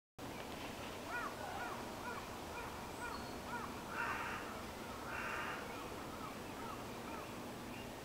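Birds calling over a steady background hiss: a run of short rising-and-falling notes, about two a second, and two harsh crow caws about four and five seconds in.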